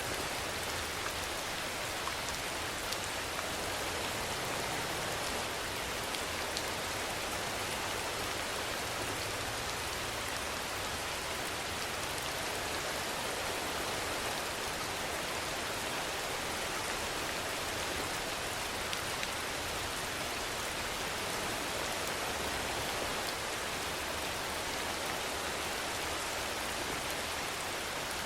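Steady rainfall, an even hiss with small scattered drop ticks.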